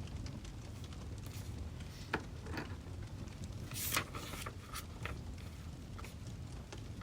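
Wood fire crackling: a steady low rumble with scattered sharp pops and snaps, and a louder brief burst about four seconds in.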